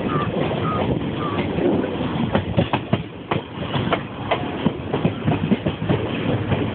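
Indian Railways passenger train running, heard from the open coach doorway: the wheels clatter over rail joints in an uneven run of sharp clicks over a steady rumble of the moving coaches.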